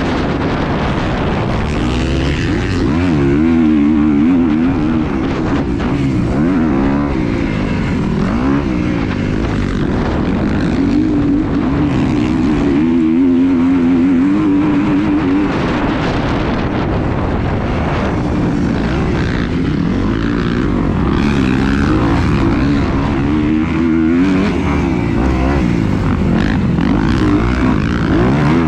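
A small engine running, its pitch wavering up and down again and again, with heavy wind rumble on the microphone.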